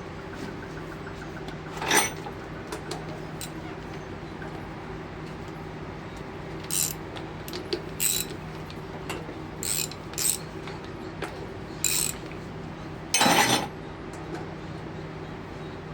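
Sharp metallic clinks and clanks of hand tools and steel parts being handled while dismantling an alternator, about seven separate strikes with a longer, louder clatter near the end, over a steady low hum.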